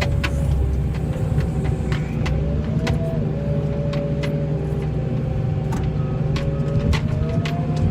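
Snowplow vehicle's engine running steadily while the blade pushes snow over rough, rippled ice. A faint whine slowly rises and falls in pitch, and scattered knocks and rattles come through.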